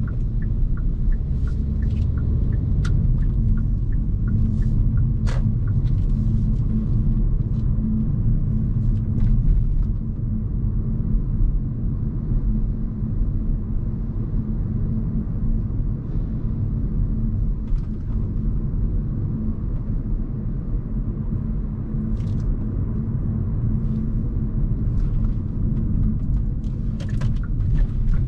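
Steady low road and drivetrain rumble heard inside the cabin of a moving Hyundai Kona Hybrid, with a few faint clicks and ticks.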